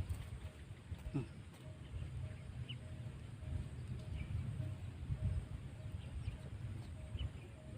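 Faint, scattered short bird chirps over a steady low rumble, with one falling call about a second in and a faint pulsing note repeating evenly throughout.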